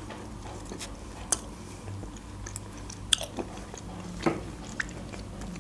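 Close-miked chewing of soft, fresh apricot: quiet wet mouth sounds with a few sharp clicks.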